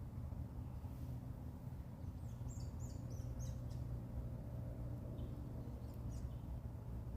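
Red-winged blackbird giving a quick run of short, high chirps, with a few more single chirps a couple of seconds later, over a steady low rumble.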